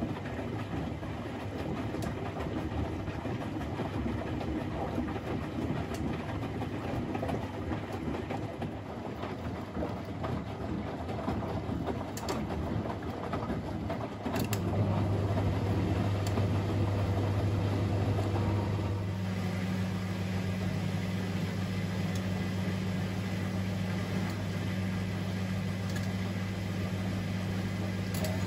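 Privileg 3001 S washing machine running, with a rumbling mechanical noise and a few sharp clicks. About halfway through, a steady low hum starts and carries on, while the rumbling eases a few seconds later.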